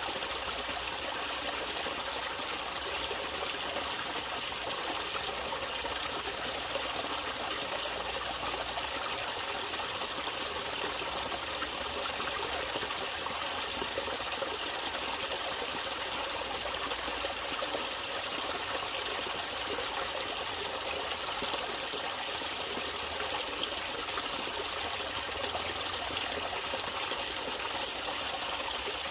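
Water flowing and trickling steadily in a natural stream, an even, unbroken wash of sound.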